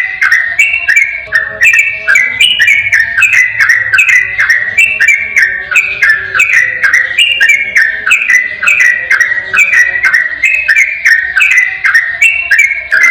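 Yellow-vented bulbul (trucukan) singing a rapid, unbroken run of loud whistled phrases, each a quick cascade of notes stepping down in pitch, several notes a second, with no pause.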